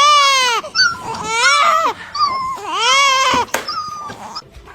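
A dog whining in a run of high, drawn-out cries, each rising and falling in pitch, about four in a row and fainter toward the end.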